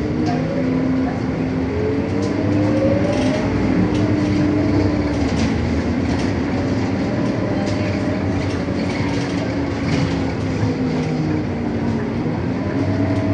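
Scania K230UB city bus under way, its diesel engine and driveline running with a whine that rises in pitch as the bus picks up speed, then again later on. Short rattles and clicks sound throughout.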